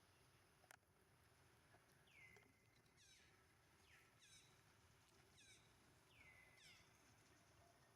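Faint, high-pitched animal calls repeated about once a second, each sliding quickly down in pitch, some ending in a short level note; a single sharp click just under a second in.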